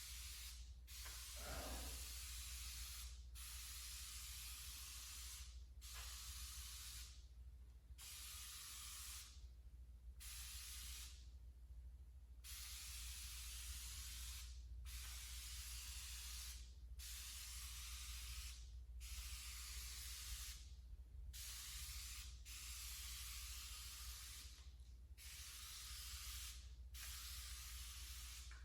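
Aerosol can of fabric dye spraying in repeated passes of one to two seconds with short breaks between them, about a dozen in all: a light first coat being laid down in overlapping lanes.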